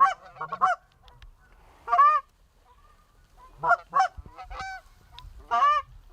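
Canada goose honks: a series of short, loud calls, some coming in quick pairs.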